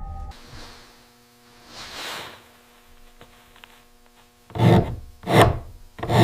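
Three loud, heavy strokes on wood about 0.7 s apart, starting about four and a half seconds in, after a soft swish. This is hand-tool work on timber.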